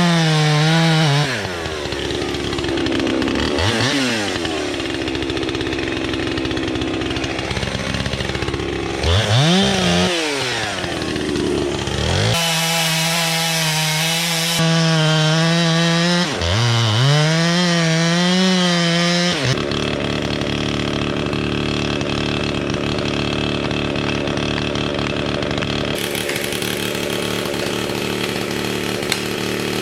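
Chainsaw cutting into a large tree trunk during felling, its engine note dropping and climbing again several times as the chain bites into the wood and frees up. After about twenty seconds the clear engine note gives way to a rougher, more even noise.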